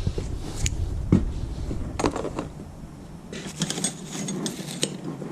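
Hand tools being handled: scattered clicks and knocks, then a run of quick, bright metallic rattling clicks about three and a half seconds in, lasting over a second.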